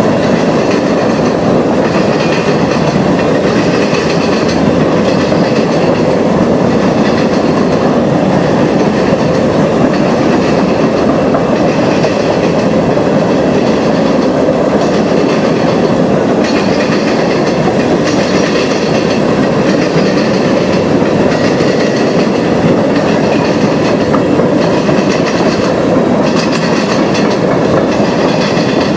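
Railroad cars rolling past, steel wheels clattering over the rails in a loud, steady run.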